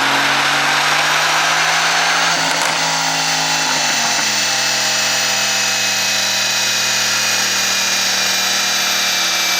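Mercedes-AMG GT S's twin-turbo V8 running steadily, with a high whine over the engine note; the note steps down slightly about four seconds in.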